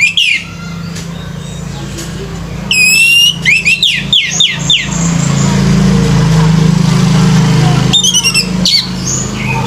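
Orange-headed thrush (anis merah) singing: loud bursts of rapid, high whistled notes sweeping in pitch, with a quick run of falling notes about four seconds in and another short run near the end. A steady low hum lies underneath.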